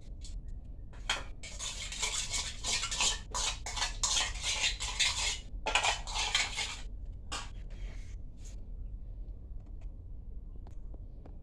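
Cutlery scraping and clinking against a dish in a run of quick strokes for several seconds, then a few scattered clicks.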